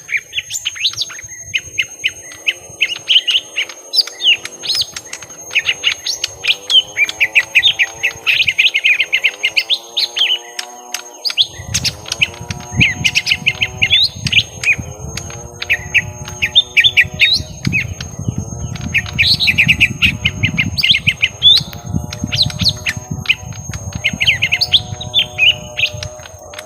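Young cucak ijo mini (leafbirds) singing in a territorial 'fight': fast, dense chattering chirps and whistles that run on without pause. Beneath them a lower call repeats about once a second, and a low rumble joins about halfway in.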